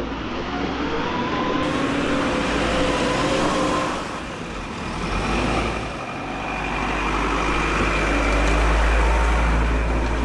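Motor vehicle engine running nearby, its pitch rising and falling, with a deep rumble that grows louder in the second half.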